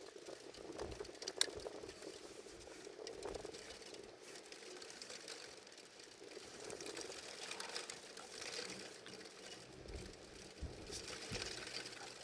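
Strong wind blowing in uneven gusts, with a sharp tick about a second and a half in.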